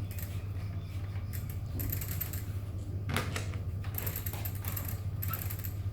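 Bicycle repair work: irregular metal clicks and short spells of rapid clicking from bicycle parts, over a steady low hum.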